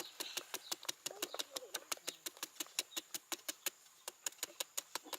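A rapid, even series of sharp taps or knocks, about six a second, starting and stopping abruptly.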